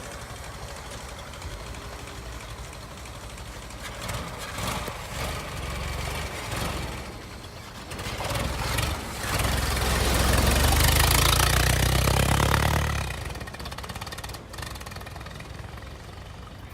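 1926 Ford Model T pickup's four-cylinder engine running, growing louder about eight seconds in, loudest for a few seconds, then fading away.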